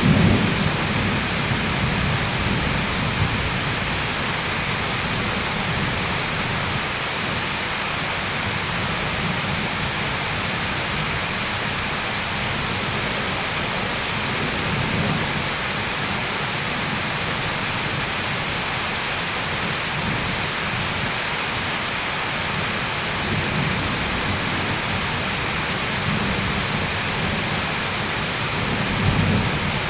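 Thunderstorm: heavy rain falling steadily, with low rolls of thunder rumbling at intervals, strongest right at the start and again near the end.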